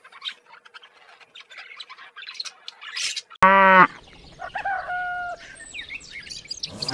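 Animal calls: about three seconds of small, scattered high chirps and twitters. Then, about halfway through, a sudden loud pitched call of about half a second cuts in, followed by a few shorter calls.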